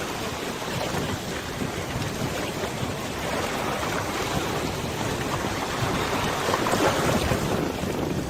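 Wind blowing over the microphone along with the rush and lap of river water, a steady noise that swells briefly about six and a half seconds in.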